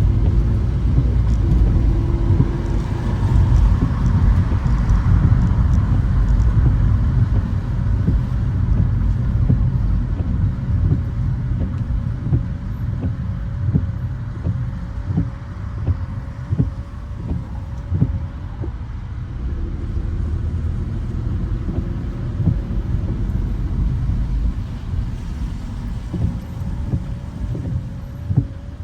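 Car driving on wet city streets in rain: a steady low road and tyre rumble, easing slightly about halfway through, with scattered short knocks.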